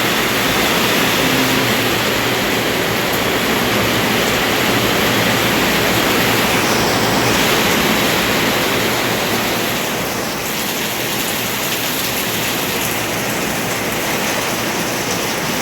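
Heavy rain pouring down steadily, an even rushing noise that eases slightly about ten seconds in.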